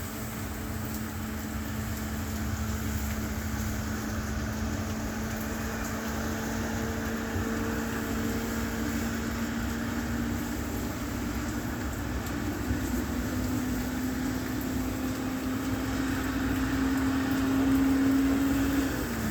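A vehicle engine running steadily, its hum creeping slightly higher in pitch and louder, then dropping away sharply near the end.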